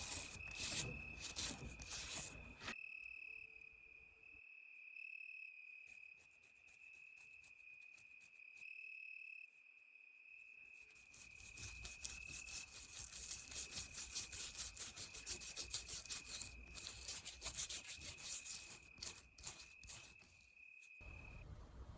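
Wire brush scraping rust off a cast-iron kettlebell in quick repeated strokes, over a steady high-pitched whine. The scraping stops for several seconds a few seconds in and starts again near the middle.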